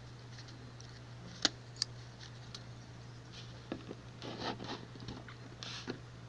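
A few small clicks and short rubbing and scraping sounds, like hands handling plastic toys, over a steady low hum; the sharpest click comes about one and a half seconds in.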